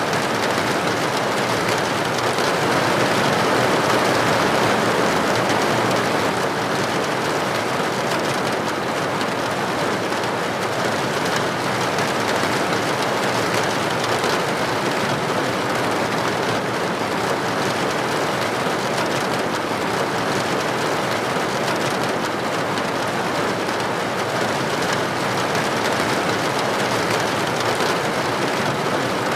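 Steady heavy rain, a dense even hiss of drops falling on a hard surface with no let-up.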